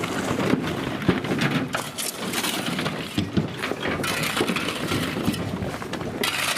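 Crushed ballast stone pouring and clattering out of a work train's wagons, a dense, continuous rattle of many small irregular knocks.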